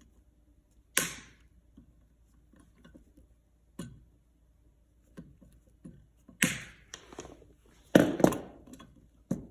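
Electrical cable being cut and handled: a few sharp snaps and knocks, the loudest about a second in and a pair near the end, with small clicks between.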